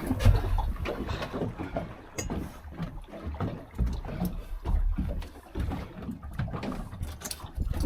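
Water slapping against a small boat's hull, with irregular low thuds and a few faint clicks.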